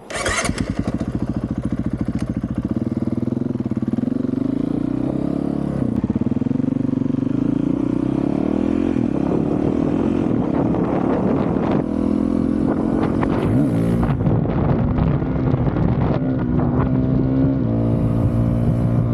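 2023 Honda CRF450RL single-cylinder four-stroke dirt bike engine with a full titanium Yoshimura exhaust. It fires up suddenly at the start, then runs loudly, its engine speed rising and falling as it is revved.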